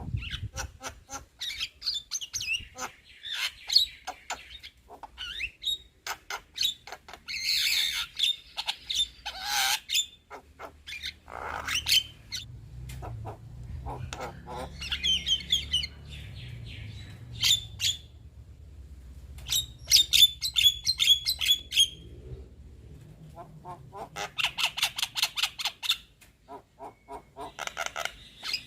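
Young Javan myna (jalak kebo) chattering: harsh squawks and whistled notes mixed with rapid runs of clicking notes, in irregular bursts.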